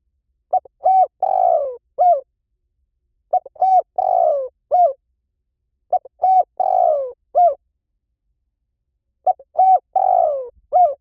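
Spotted dove cooing: four repeated phrases, about one every three seconds, each a run of short coos with a longer falling note near its end. This is a lure recording used to draw wild spotted doves to a decoy.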